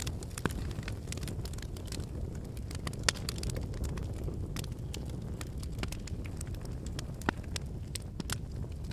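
Wood fire burning: a steady low rush of flame with constant light crackling of burning logs, and a few sharper pops, the loudest about three seconds in and another near seven seconds.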